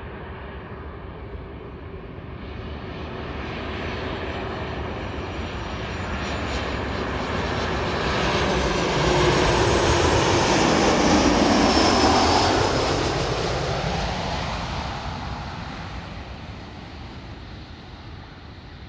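Jet airliner's engines passing close by, building to a peak about halfway through and then fading, with a high whine that drops in pitch as it goes past.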